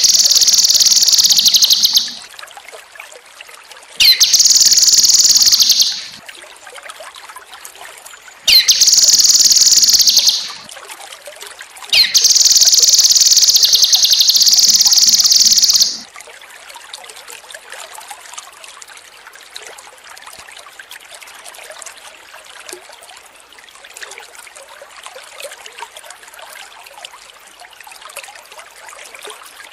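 Cucak kinoi songbird singing four loud phrases of rapid trilling notes, each opening with a quick upward sweep; the last and longest ends about halfway through. After that only a soft, steady trickle of running water continues.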